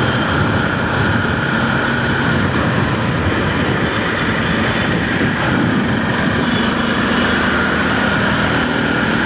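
Steady riding noise from a motorcycle under way: the Bajaj Pulsar 200NS's single-cylinder engine running at an even pace under a constant rush of wind and road noise.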